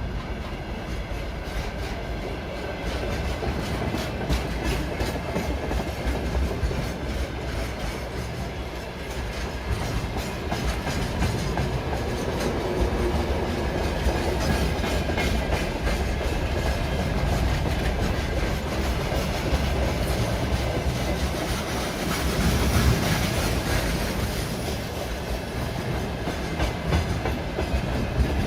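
A train rolling past on the track, its wheels clattering steadily over the rail joints.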